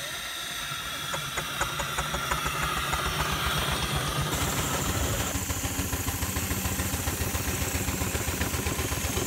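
Two engines working together to pull a heavy load, running with a fast, steady beat and growing a little louder over the first few seconds.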